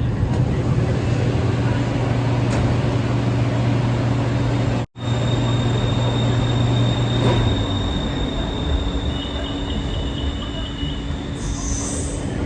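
Interior running noise of a BTS Skytrain EMU-B1 train car: a steady rumble with a low hum that fades out about two thirds of the way through, and a thin high whine over it. The sound drops out for an instant about five seconds in.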